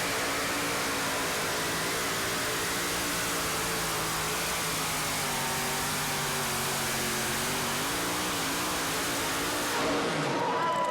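Engine of a tractor-pull tractor running hard under a loud, steady hiss of noise, its pitch holding nearly level with a slight sag about two-thirds of the way in. The sound changes abruptly near the end.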